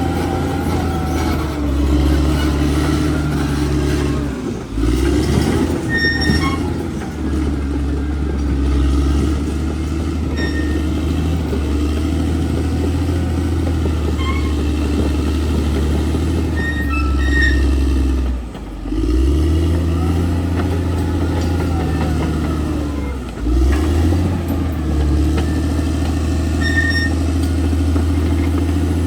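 Crawler bulldozer's diesel engine running steadily under work. Its note dips and comes back three times, and short high squeaks are heard here and there.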